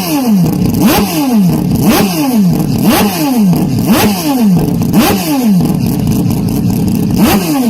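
Loud car engine revving up and dropping back again and again, about once a second, in an even repeating pattern.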